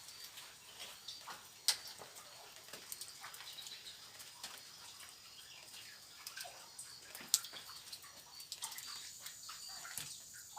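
Faint outdoor ambience of steady high-pitched wildlife chirping, with scattered small clicks and taps and two sharper clicks, about 2 s in and about 7 s in.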